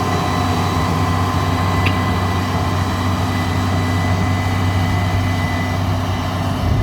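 Heavy diesel vehicle engine running steadily at a constant speed, with a deep, even drone.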